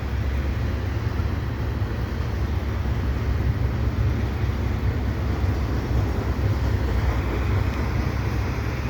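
Steady low rumble and hiss of a CP double-stack intermodal freight train rolling past in heavy rain.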